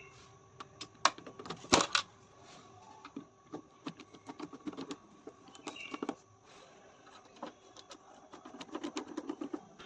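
Tools and metal parts clicking and clattering as they are handled, in irregular knocks, the loudest about two seconds in, over a faint steady hum.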